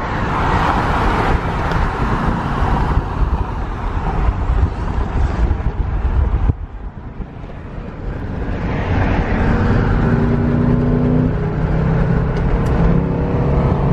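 A car's engine and road noise from a moving car. The sound drops off suddenly about halfway, then builds again with a steady engine note.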